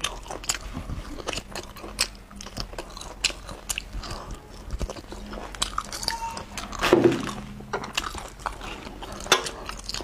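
Close-miked eating: biting and chewing the meat of a braised beef marrow bone, with many sharp mouth clicks and smacks and a louder burst about seven seconds in.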